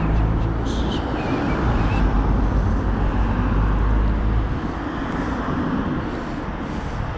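A motor vehicle's engine running close by, a steady low hum that eases off about four and a half seconds in.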